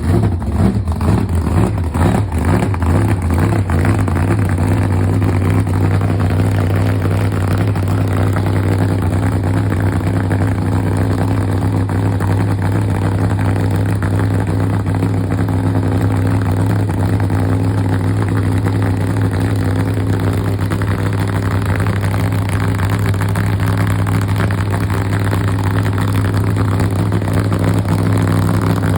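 Hemi engine running at a steady idle, a little uneven in the first few seconds and then holding an even pitch.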